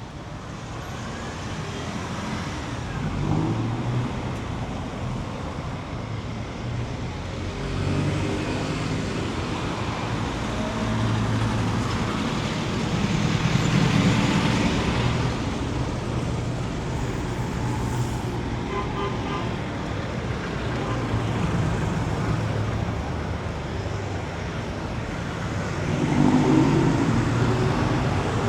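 City street traffic: motor vehicle engines running and passing close by, growing louder about halfway through and again near the end.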